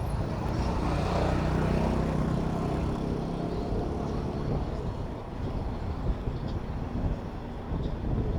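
Road traffic heard from a bicycle: a motor vehicle's engine drones close by and fades after about three seconds, leaving a low, uneven rumble.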